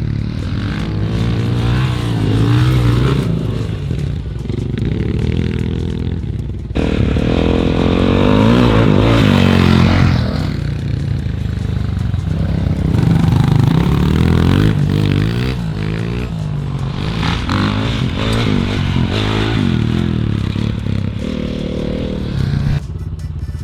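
Dirt bike engine revving up and down while being ridden, its pitch rising and falling again and again.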